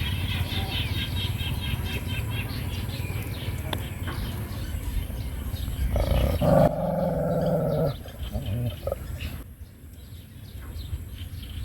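A dog growling and snarling loudly for about two seconds, a little past the middle, over a steady low background rumble.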